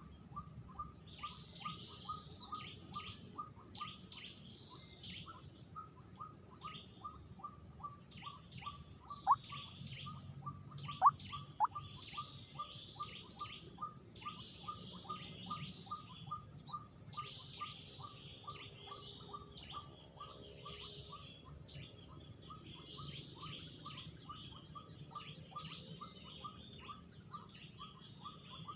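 A bird calling a long steady series of short, identical notes, about three a second, with higher chirping over it. Three louder, quick sliding notes stand out around ten seconds in.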